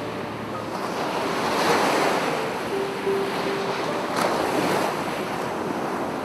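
Sea waves breaking and washing on a beach, swelling louder about two seconds in and again about four seconds in. Soft piano notes sound faintly underneath.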